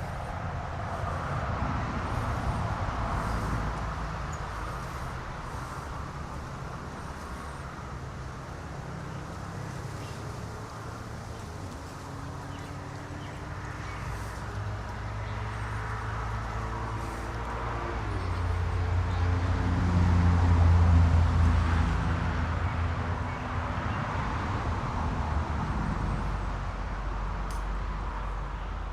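Low, steady hum of a motor vehicle engine, swelling to its loudest about two-thirds of the way through and then easing off.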